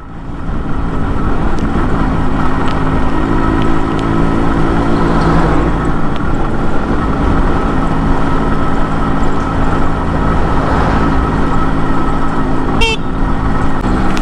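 Yamaha RX100's small two-stroke single-cylinder engine running steadily at cruising speed while riding, with wind and road rush. A brief high-pitched sound comes about a second before the end.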